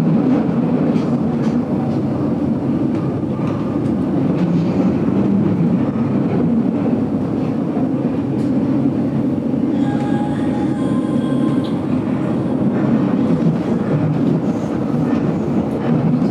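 GoldenPass Belle Époque vintage train carriage running along the track, heard from inside the carriage: a steady rumble of wheels on rail with light clickety-clack.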